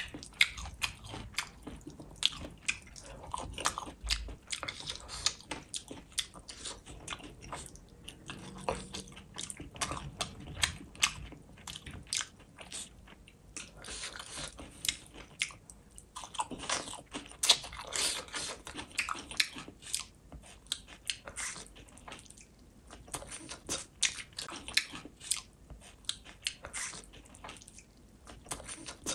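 A person chewing and biting mouthfuls of fish and rice eaten by hand, with many small irregular wet clicks, smacks and crunches.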